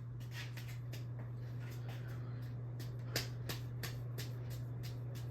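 30-inch Encon ceiling fan running with a steady low hum and faint, irregular light clicks.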